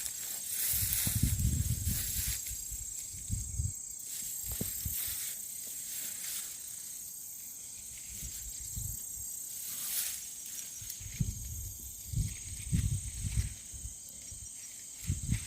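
Irregular footsteps thudding on the woodland floor in clusters, over a steady high insect drone.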